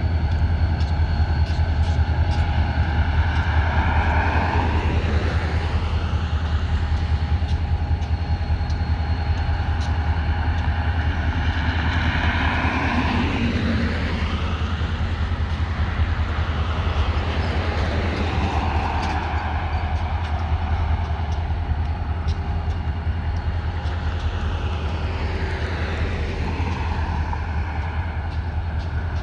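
Steady low diesel rumble of EMD SD40-2 locomotives working a freight train, with road vehicles passing several times, each swelling and fading.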